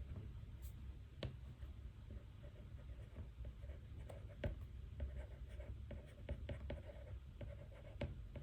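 Pen writing on paper: short scratchy strokes and small taps, over a low steady room hum.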